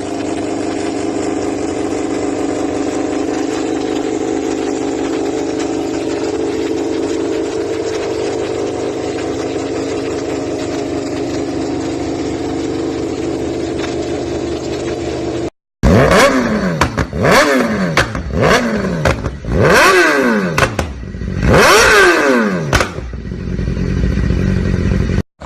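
A motorcycle engine running at a steady speed. After a sudden cut, an engine is revved hard about five times, its pitch sweeping up and falling back each time.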